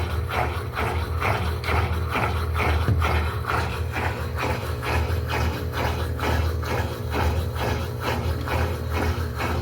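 Electrolux LED14 washing machine running its wash cycle: a steady motor hum under a quick, even rhythm of agitation strokes.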